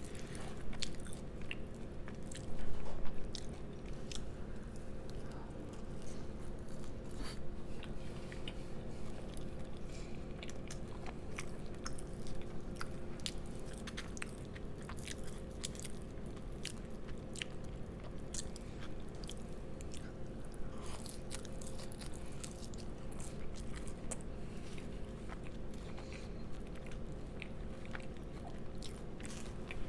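Close-up chewing and biting of soft French fries: wet mouth clicks and small crunches scattered through, with one louder bite about three seconds in.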